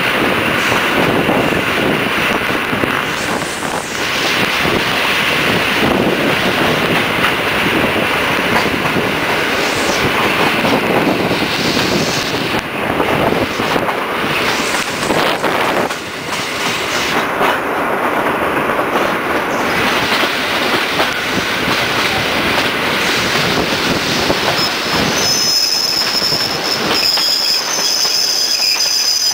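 Passenger train running, heard from a carriage window: wheels rumbling and clattering over the track, with flanges squealing on the curves. A steady high-pitched squeal sets in near the end.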